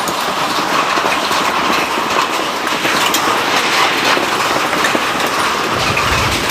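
Heavy rain falling: a steady, dense hiss with scattered sharp drop hits. A short low rumble comes in about six seconds in.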